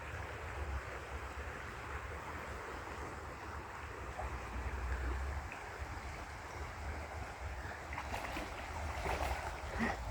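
Creek water rushing steadily, with wind rumbling on the microphone. A few brief, sharper sounds come in near the end.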